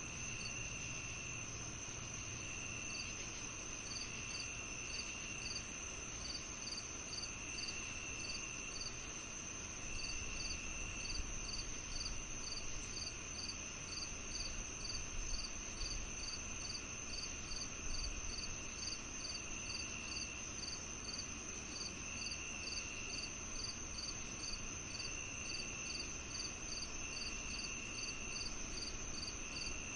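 Crickets and other insects calling on a summer evening: a continuous high trill, a steady chirp about twice a second, and a lower trill that comes and goes in spurts of about a second, over a faint low rumble.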